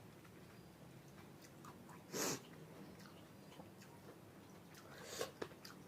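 Quiet close-up chewing and biting of food, with one short louder noise about two seconds in and a few soft clicks near the end.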